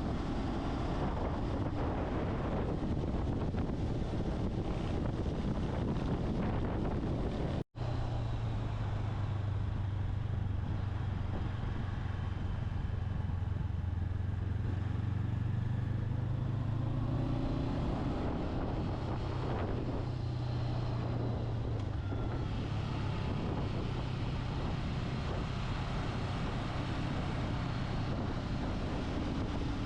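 Motorcycle under way: the engine running steadily as a low hum beneath heavy wind rush on the microphone. The sound drops out briefly about eight seconds in.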